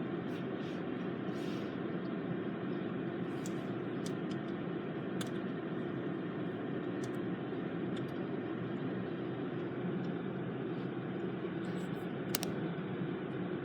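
Steady car-cabin noise of a car running, with a few faint clicks and one sharper click near the end.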